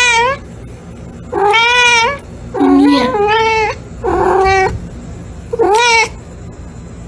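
A cat meowing over and over: a call just ending at the start, then four drawn-out meows about a second apart, each bending in pitch.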